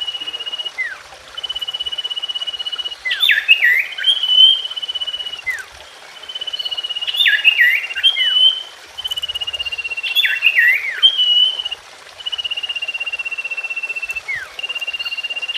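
Common iora (cipoh) singing. Each phrase is a long buzzy trill held on one high pitch, then a few quick falling whistles, and the phrase repeats about every four seconds.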